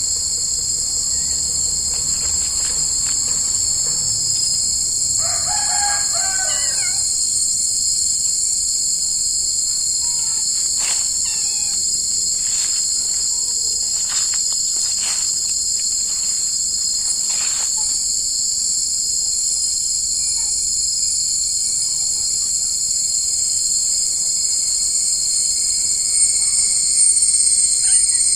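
A dense insect chorus keeps up a steady, shrill high buzzing throughout. About five seconds in, a rooster crows once in the background, and a few short faint calls follow later.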